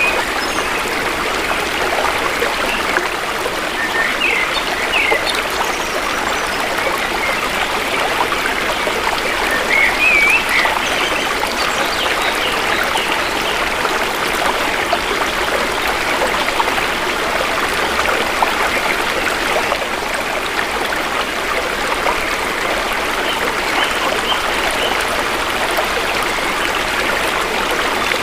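Shallow stream flowing steadily. A few short chirping bird calls come through, around four and ten seconds in.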